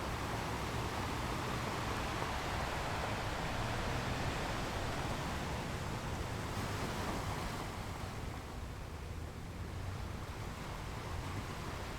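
Ocean waves washing on a beach: a steady rushing surf that swells over the first half and eases off about two-thirds through.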